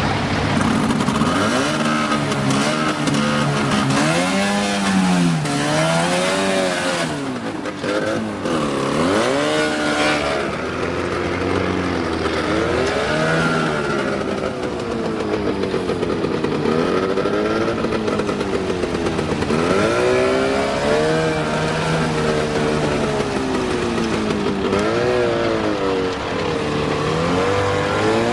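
A vehicle engine revving up and down again and again, its pitch rising and falling every second or two.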